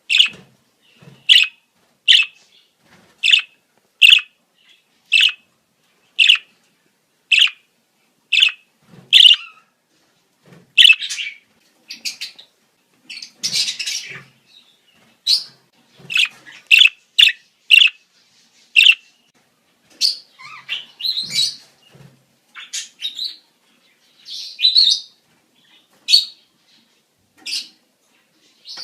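Budgerigars calling in breeding-season chatter: sharp chirps about once a second for the first ten seconds, then faster, more varied chirping and warbling.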